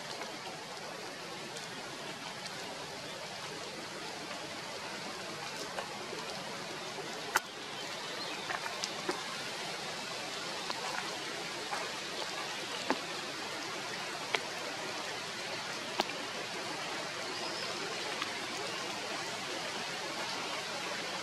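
Steady rain falling, a continuous hiss with occasional sharp drip ticks, the loudest about seven seconds in.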